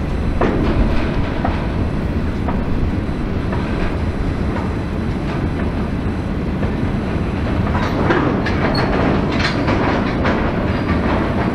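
A freight train's wagons rolling past with a steady rumble and clattering wheels over the rail joints. A busier run of clicks and clanks comes about two-thirds of the way through.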